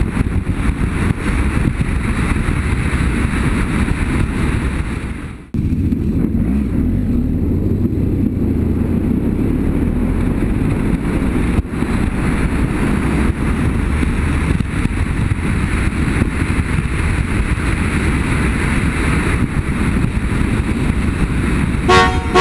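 BMW F800GS motorcycle running at riding speed, its engine and wind noise a steady rumble, with a brief drop about five seconds in.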